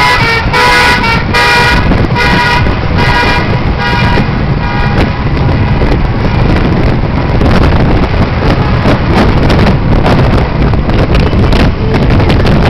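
Vehicle horns honking in repeated toots over the first few seconds, then the loud, steady rumble of many motorcycle engines running together.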